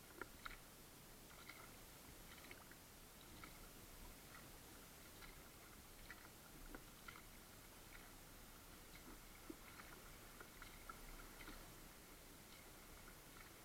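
Kayak paddling on calm water, heard faintly: irregular small clicks and drips from the paddle and hull over a quiet hiss.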